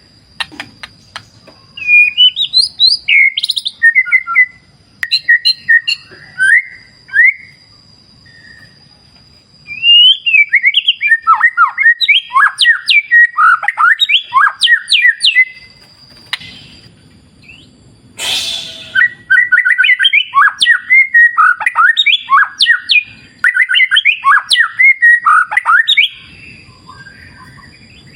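White-rumped shama (murai batu) singing in bursts of rapid, varied whistled phrases with short pauses between them, over a steady thin high tone. A short burst of noise comes about eighteen seconds in.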